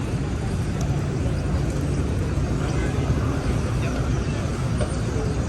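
Steady city street traffic noise: a continuous low rumble of passing vehicles with no single event standing out.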